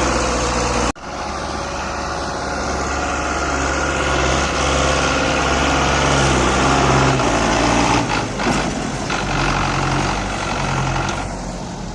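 Heavy farm-machinery diesel engine running steadily. It breaks off sharply about a second in and picks up again at a different tone, and the low drone shifts again around seven seconds.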